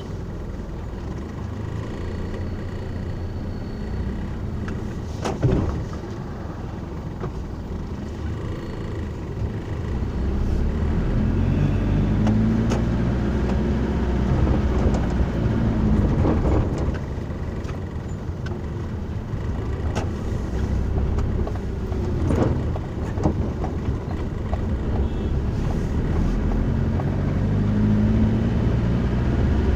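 Car driving: steady engine and road noise, with the engine note rising and falling as it speeds up, and a few sharp clicks.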